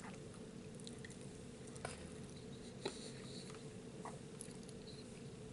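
Faint sounds of a person eating: quiet chewing with a few soft clicks, over a low steady room hum.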